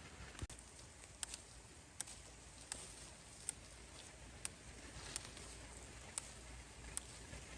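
A series of sharp, short clicks, irregularly spaced at about one a second, over a faint steady hiss.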